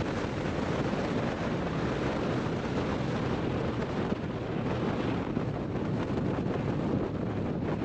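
Steady wind rush on the microphone of a motorcycle rider's camera while riding, with the motorcycle's engine and road noise mixed in beneath it.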